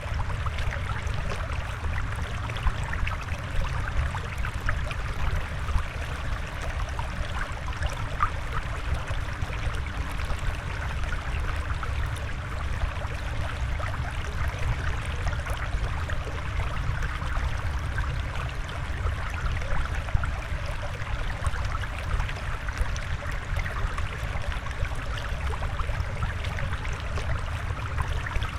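Steady flowing, trickling water with a constant low rumble underneath and no break.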